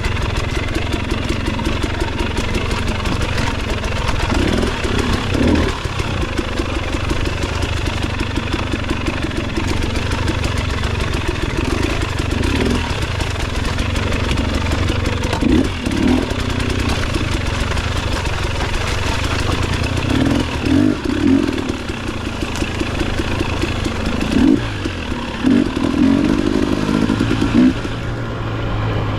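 Motorcycle engine running steadily on the road, with several brief louder surges along the way.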